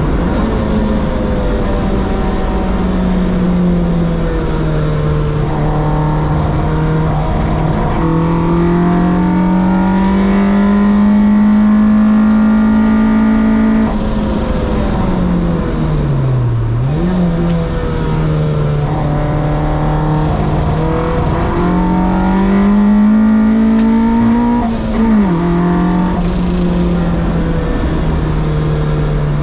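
A car's 1.6-litre engine running hard under load, its pitch climbing slowly through long pulls. It drops sharply about halfway through, dips deep and comes back up a couple of seconds later, then climbs again before a sharp drop near the end.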